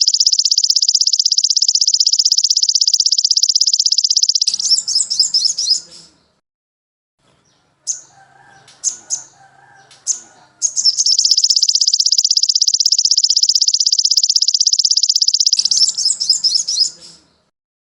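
Recorded songbird song played as a tutor track: a long, very fast high trill lasting about four and a half seconds that breaks into jumbled chattering notes, a short silence, a few separate chirps, then the same long trill and chatter again.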